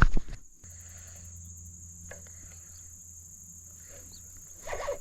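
Crickets singing a steady high-pitched drone over a faint low hum, with a brief louder noise at the very start.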